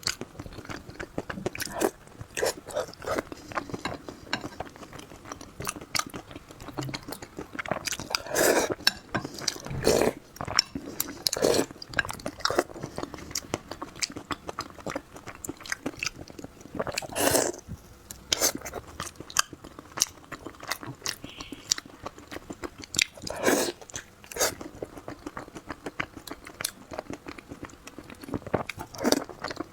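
A person chewing and biting food close to the microphone: irregular mouth clicks and smacks, with a few louder bites scattered through.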